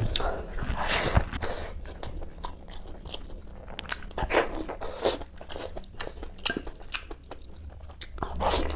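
Close-miked mukbang eating sounds: a person chewing a mouthful of rice and greens, with many short, irregular wet smacks and clicks of the mouth. Near the end, biting into a piece of mutton on the bone.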